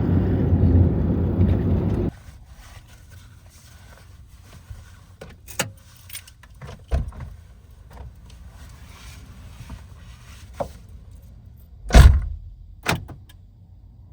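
Low vehicle rumble that cuts off abruptly about two seconds in, then quiet with scattered clicks and knocks of things being handled in a van, the loudest a heavy thump near the end followed by a sharper knock.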